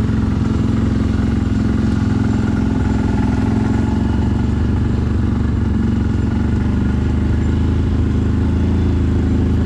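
CFMoto 1000 ATV's V-twin engine running at a steady pace while riding, its note holding level with no revving.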